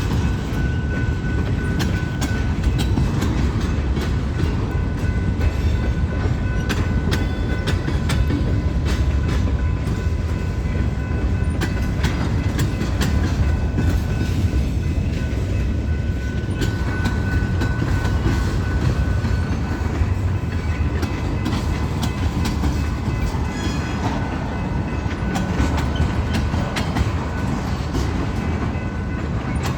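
Freight cars of a long, slow eastbound train rolling past: a steady low rumble with many sharp clicks from wheels crossing rail joints, and faint thin high tones running through it.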